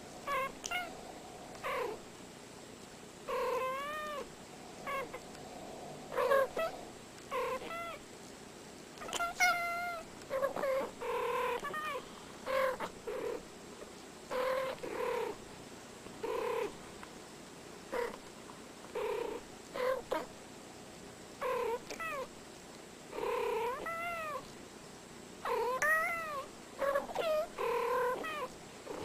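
Domestic cat meowing over and over in short calls, many rising and falling in pitch, about one every second.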